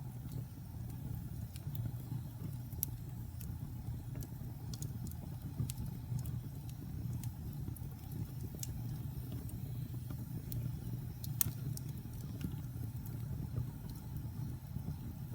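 Fireplace fire burning with a steady low rumble and scattered sharp crackles and pops of burning wood at irregular intervals.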